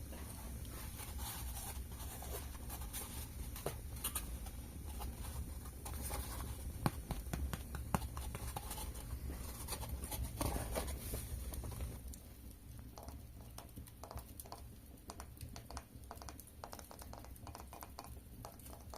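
Close-miked ASMR taps and scratches: a dense run of small clicks and crackles over a steady low hum, thinning out after about twelve seconds.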